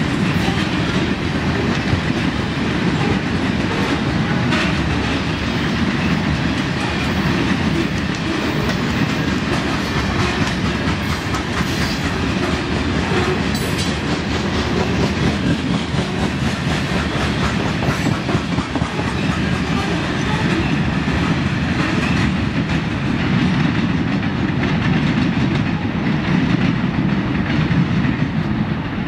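Freight train of covered hopper cars rolling past at steady speed: a continuous low rumble of wheels on rail, with clacking as the wheels cross rail joints.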